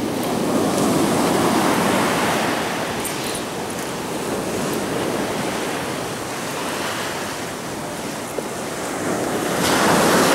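Ocean surf washing in, waves breaking and water rushing up the shore, swelling louder about a second in and again near the end, with wind buffeting the microphone.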